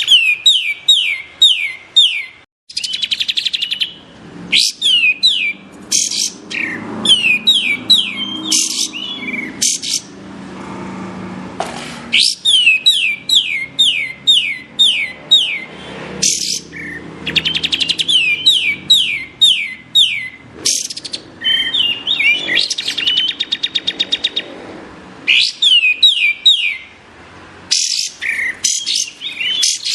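Kapas tembak bulbul singing: quick runs of sharp whistled notes, each sweeping steeply down, about six a second, in bursts of one to two seconds with short breaks between.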